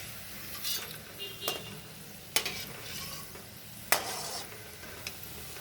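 Paneer and cheese rolls deep-frying in hot oil, a steady sizzle, with a few sharp clicks.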